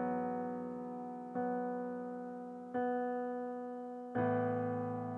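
Electric piano playing slow, sustained chords as worship accompaniment: four chords, one struck about every second and a half, each ringing and fading before the next.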